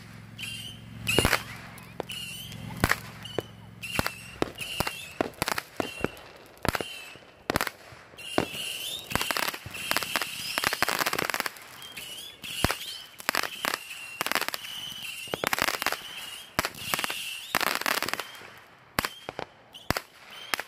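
Saturn Missile firework battery firing a rapid, irregular string of small rockets, each a short whistle ending in a sharp pop. The volleys come thickest about nine to twelve seconds in and again around sixteen to eighteen seconds.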